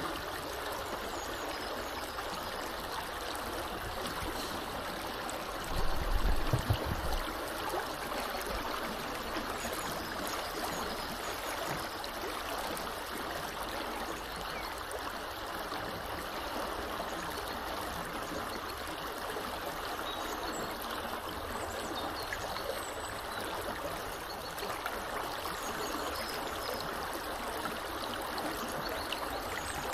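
Small river running in a steady, even rush of flowing water. A brief low rumble about six seconds in stands out above it.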